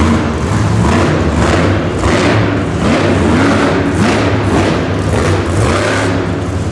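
Monster truck engine revving, its pitch rising and falling, amid repeated heavy thuds about once a second.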